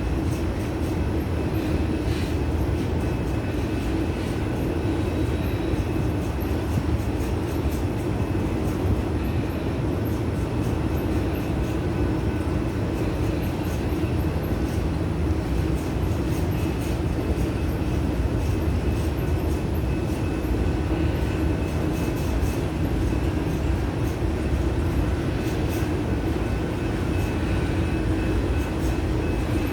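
Freight train rolling steadily past, a continuous rumble of the cars' wheels on the rails with faint thin squealing tones above it.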